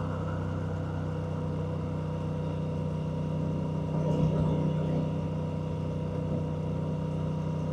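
Honda Rebel 1100's parallel-twin engine running at a steady pitch, with a brief swell in level about four seconds in.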